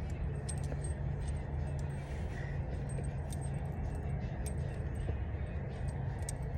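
Small hard items clicking and clinking as they are handled, many short ticks at irregular times, over a steady low hum.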